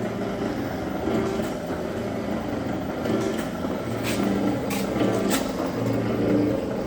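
Zocca 500 metal-working shaper running, a steady mechanical hum with a few sharp clicks a little over half a second apart near the middle.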